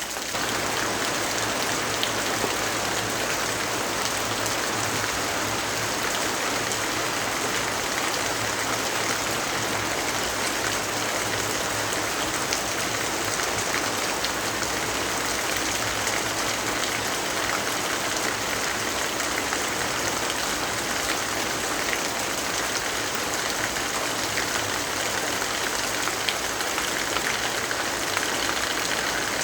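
Steady rainfall: an even hiss with scattered faint ticks of drops.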